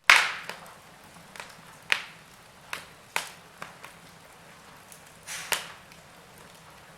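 Fire crackling in a fireplace: irregular sharp pops over a faint hiss, the loudest pop right at the start.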